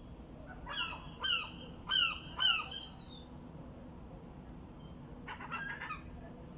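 Gulls calling: a run of about five short, downward-bending calls, then a quicker burst of calls near the end.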